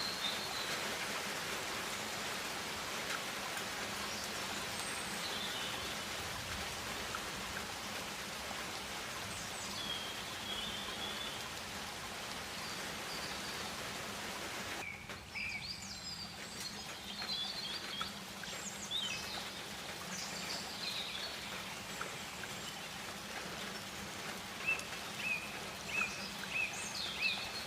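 Tropical rainforest ambience: a steady hiss with scattered bird calls and chirps. About halfway through the hiss drops away abruptly, leaving clearer, busier bird calls, with a repeated high whistled note near the end.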